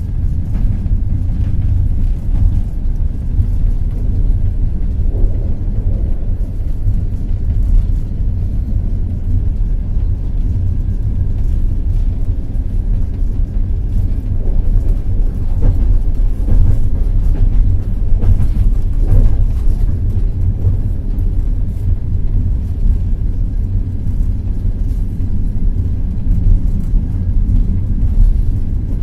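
Passenger train running at speed, heard from on board: a steady low rumble of wheels on rail, with a few faint clicks of the wheels over rail joints.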